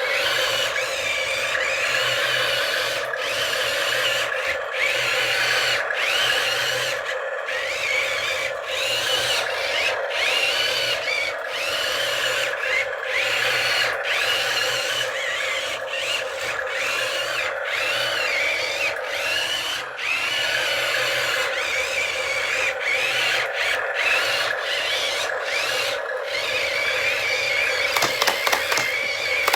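A small electric toy motor whining steadily, its pitch wavering slightly, with brief dropouts and a quick run of clicks near the end.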